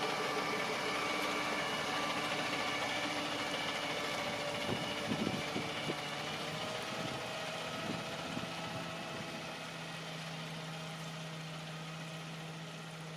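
Peterbilt garbage truck's diesel engine running steadily, with several steady whining tones over it and a few knocks about five seconds in.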